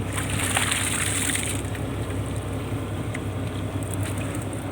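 A purse-seine fishing boat's engine running steadily, with a rush of splashing water lasting about a second and a half at the start.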